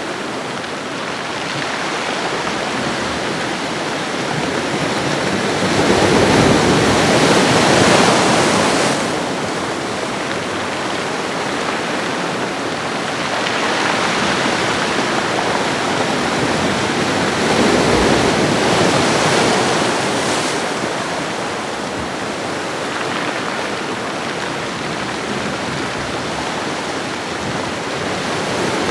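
Ocean waves washing onto a shore, a steady rush of surf that swells and eases in slow surges, with the biggest surge about six to nine seconds in.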